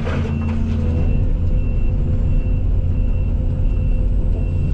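Case CX220E excavator's diesel engine running steadily under work, with a faint short high beep repeating about twice a second.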